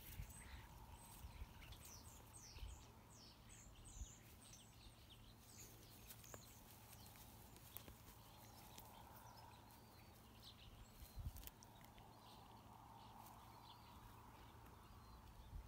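Near silence with faint, high bird chirps, most of them in the first half, and a few soft low thumps.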